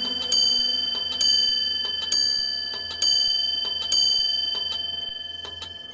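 Clock bell striking the hour: five evenly spaced ringing strikes, about one a second, in a run of seven that counts out 'the clock struck seven'. Faint ticking runs between the strikes, and the last strike rings out and fades.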